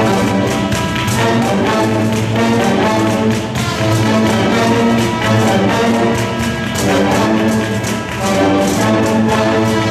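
Live instrumental ensemble music with brass to the fore, playing sustained chords that change every second or so over a steady beat.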